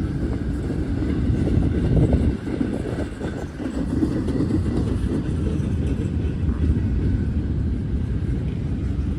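Norfolk Southern freight train rolling past, a steady low rumble from the train on the rails, with wind buffeting the microphone.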